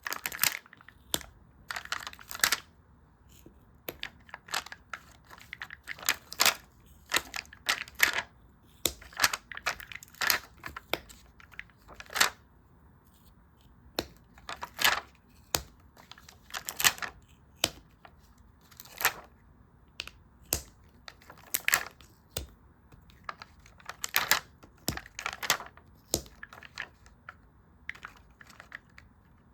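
Stickers and paper being handled close to the microphone: a run of irregular short crinkles and crackles with quiet gaps between them.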